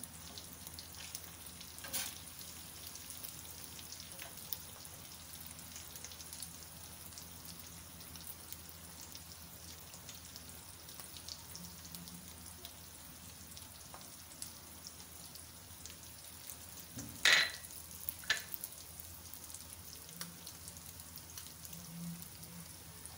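Nearly finished minced beef frying quietly in oil on a flat tawa griddle, a steady soft sizzle. A few sharp clacks of the metal spatula on the griddle break in, the two loudest a second apart near the three-quarter mark.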